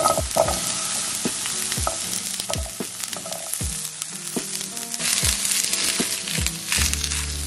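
Diced zucchini sizzling in hot oil in a frying pan, the sizzle growing denser about five seconds in as it is stirred with a spatula.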